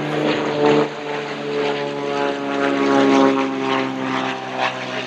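Propeller airplane flying past, its engine and propeller drone a hum of several steady tones that sag slightly in pitch partway through as it goes by.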